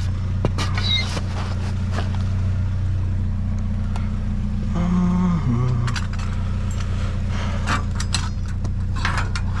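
Steady low hum of an idling vehicle engine, with scattered clanks and rattles of scrap metal being handled. About five seconds in, a short pitched tone steps down in pitch.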